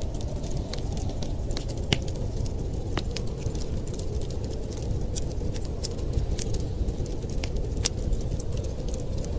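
Wood fire crackling, with scattered sharp pops and snaps, one of the loudest about two seconds in, over a steady low rumbling rush.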